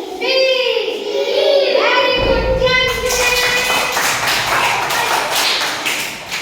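Children's voices singing or chanting together in unison, then, about three seconds in, a burst of rapid hand-clapping that runs on to the end.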